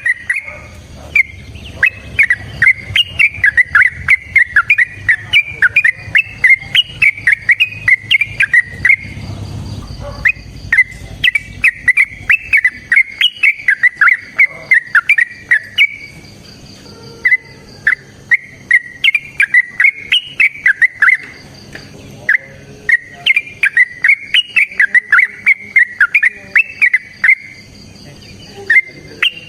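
Yellow-vented bulbul (trucukan) singing loud, long, rapid runs of chattering, whistled notes. The runs last several seconds each, with brief pauses between them. This is the long 'ropel' song of an excited bird.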